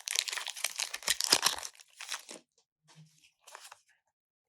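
Foil booster-pack wrapper crinkling and tearing as a Pokémon card pack is torn open, in quick dense crackles that thin out after about two seconds and stop near the end.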